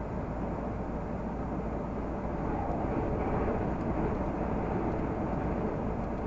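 Renault Magnum 480 truck's diesel engine and road noise while driving, a steady running sound that swells slightly about three seconds in.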